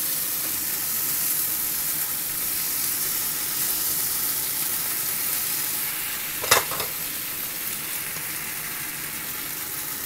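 Chicken pieces sizzling steadily in a hot oiled grill pan, with one sharp clack of a utensil against the pan about six and a half seconds in.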